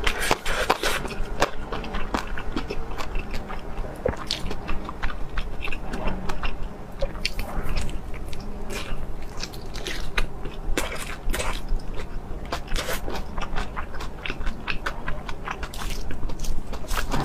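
Close-miked chewing and biting of crunchy food, with many sharp crunches and crackles coming irregularly, several a second at times.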